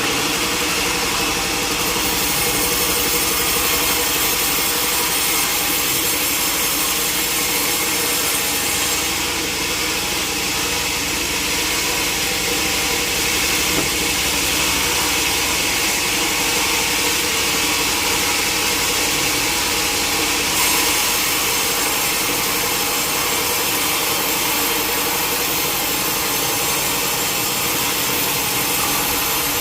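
Sawmill saw cutting lengthwise through a log: a loud, steady sawing sound that runs on without a break, with the saw's motor humming under it.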